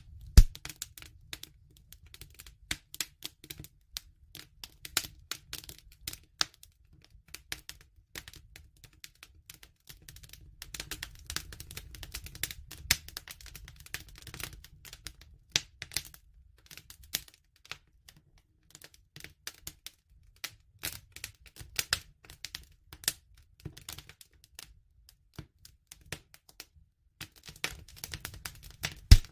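Wood fire crackling: a dense, irregular run of sharp snaps and pops, the loudest a single crack near the start, with a low rumble under them that comes and goes.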